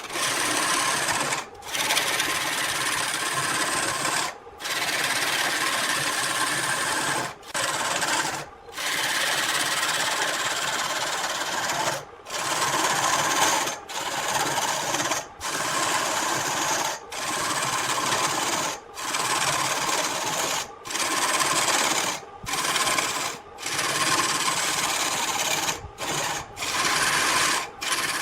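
Wood lathe running with a turning tool cutting into the spinning wood: a steady, dense scraping hiss, broken every second or two by brief gaps.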